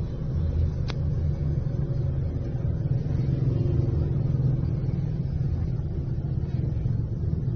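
Motor vehicle engine running with a steady low rumble that swells slightly midway, with a single sharp click about a second in.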